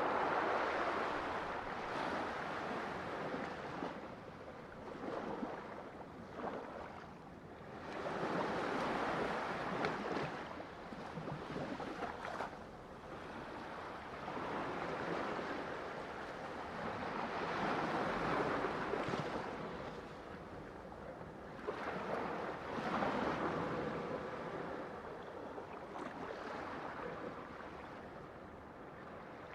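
Ocean waves breaking and washing on a shore, each surge swelling and fading over several seconds, with about four larger breakers.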